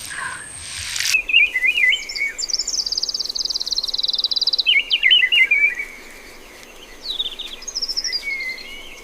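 Songbird singing: quick chirping phrases and a long, rapid trill that slides down in pitch, then a second bout of song after a short pause. A brief rushing noise cuts off about a second in, before the song starts.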